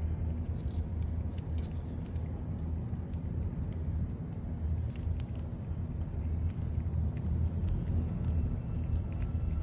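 A cat eating a treat, with small irregular clicking mouth sounds of chewing, over a steady low hum.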